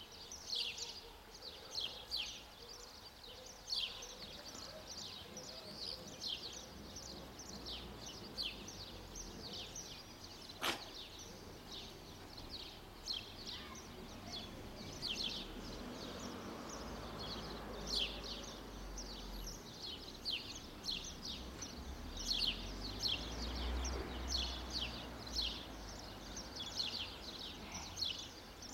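Birds chirping continuously: a dense run of short, high, falling chirps. A low rumble rises under them in the second half, and a single sharp click comes about ten seconds in.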